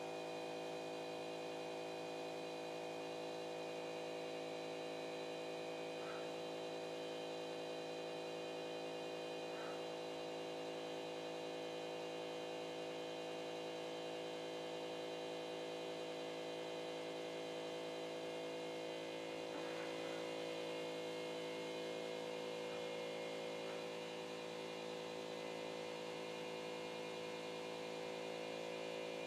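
Motors of a CNC pen-drawing machine humming steadily, a stack of fixed whining tones that shifts slightly about two-thirds of the way through.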